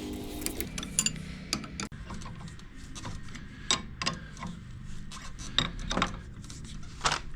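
Irregular sharp metal clinks and clicks of tools and fittings being handled during reassembly, over a steady low hum.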